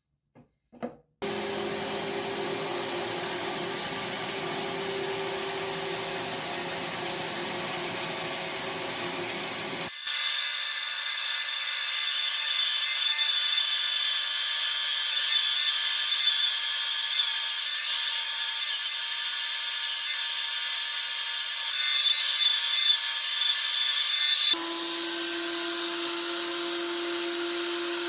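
Power tools working wood: steady motor whine with the hiss of cutting or sanding, in three stretches that change abruptly about a second in, at about ten seconds and near the end. A few clicks come before the first one.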